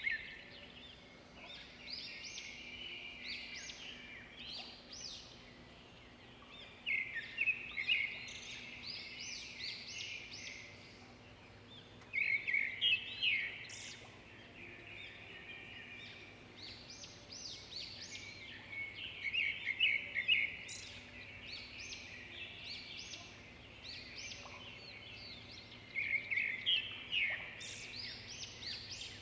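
A songbird singing: bursts of quick chirps and trills come about every six seconds, over a faint steady hum.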